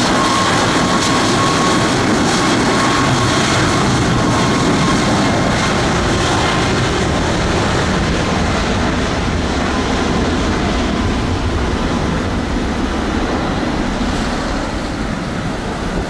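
Jet airliner engines roaring at close range, with a thin whine in the first couple of seconds; the roar eases slightly near the end.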